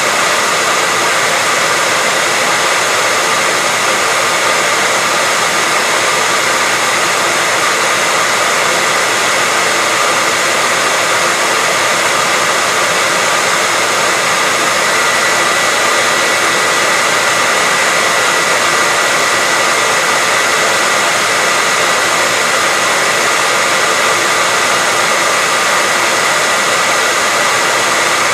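Hair dryer running steadily: an even airy rush with a steady high whine, unchanging throughout, used as white noise.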